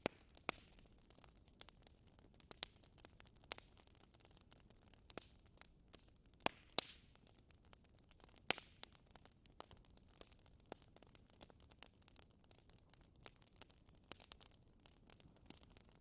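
Wood fire crackling in a fireplace: irregular sharp snaps and pops over a soft hiss, with a few louder pops about half a second, three and a half, six and a half and eight and a half seconds in.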